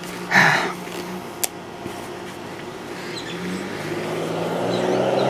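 A motor vehicle's engine humming steadily and growing louder over the last couple of seconds. There is a short rustle just after the start and a single sharp click about a second and a half in.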